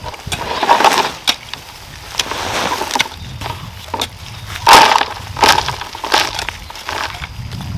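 A run of irregular knocks and short scraping bursts from hand work, the loudest a little past halfway.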